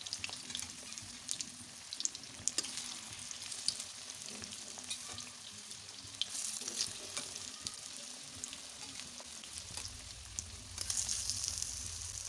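Pieces of steamed cabbage-and-egg cake sizzling as they shallow-fry in hot oil in a wok, with a steady hiss and frequent sharp crackles and pops of spattering oil. The sizzle grows a little louder near the end.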